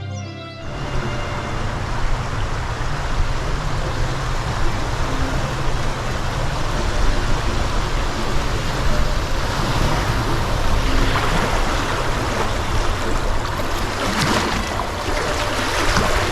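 Rushing river water from a canoe running moving water or rapids: a steady rush and rumble, with louder splashing near the end.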